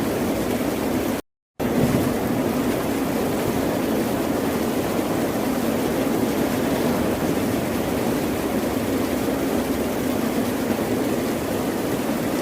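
Ocean surf washing steadily on a shore, a continuous rush of waves. Just over a second in the sound cuts out completely for a moment, a splice in the recording, then resumes.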